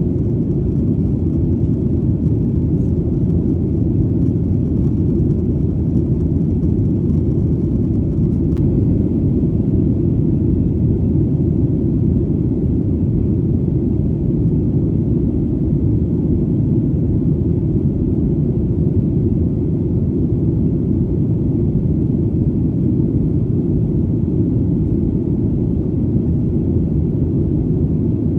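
Steady, deep rumble of an airplane in flight: an even engine drone that does not change.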